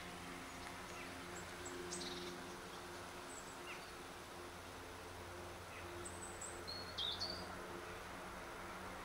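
Small birds chirping in short high calls, with the loudest quick run of chirps about seven seconds in, over a faint steady low hum.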